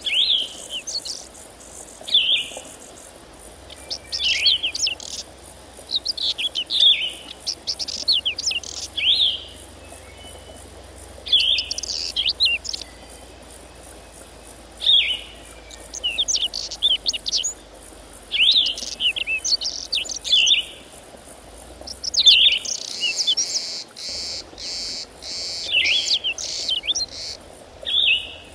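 A songbird singing short, quickly warbled phrases, one every two to three seconds, over a faint steady high hiss of insects.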